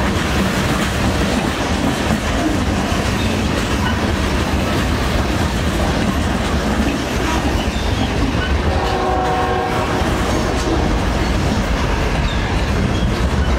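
Freight train cars, gondolas and refrigerated boxcars, rolling past close by with a steady, loud rumble and the clickety-clack of steel wheels over the rails. A brief pitched tone sounds about nine seconds in.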